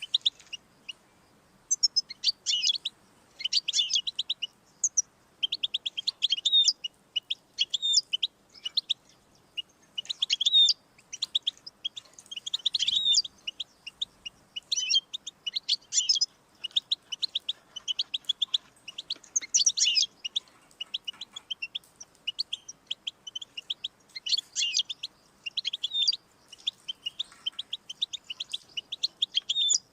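European goldfinch singing: rapid, high-pitched twittering phrases of quick notes, each a second or two long, with short pauses between them.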